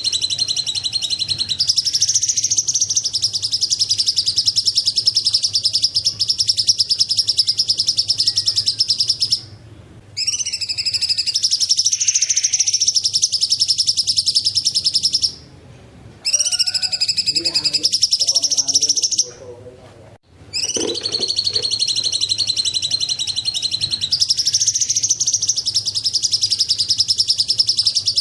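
A cucak cungkok songbird gives a rapid, high-pitched chattering song that runs almost continuously, broken by three short pauses. A faint steady hum lies underneath.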